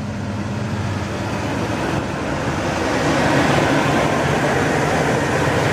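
Chevrolet Silverado 3500's 454 big-block V8 idling steadily, with a broad rushing noise growing louder about halfway through.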